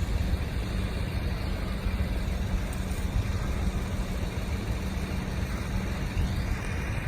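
2009 GMC 5500's 6.6-litre Duramax turbo diesel running steadily with the PTO engaged, driving the hydraulics that work the boom. The sound is a steady low engine hum.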